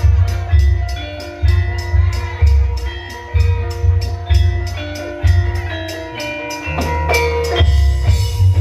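Live Javanese gamelan music for a lengger dance: a steady quick beat of drum strokes with sustained pitched notes and deep low notes underneath.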